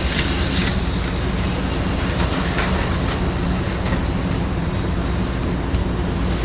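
HO scale slot cars and a model train running on the layout: a steady small-motor hum with a few brief clicks from the cars on the track.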